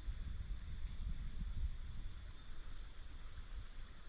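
Steady high-pitched insect chorus, like crickets, over a low, uneven rumble.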